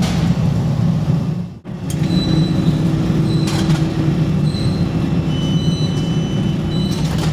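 Steady low drone of factory machinery running, with faint high whines over it and a brief break about a second and a half in.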